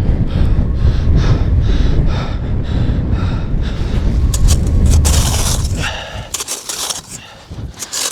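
Strong wind buffeting the microphone, with crunching scrapes in deep snow coming about twice a second for the first few seconds as snow is cleared. The wind drops away near the end, leaving lighter scattered crunches.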